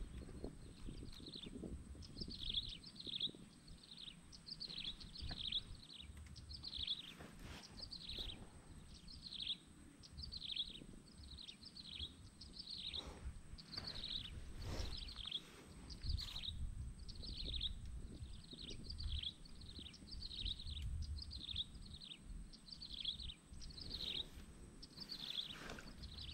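A bird calling over and over in short, high, falling chirps, a little more than one a second and sometimes in pairs, over a low rumble.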